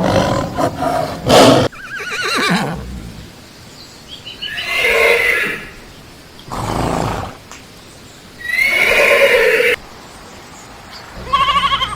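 Neighing of a horse-family animal (horse or zebra): about six whinnying calls with a quavering, wavering pitch, separated by short pauses.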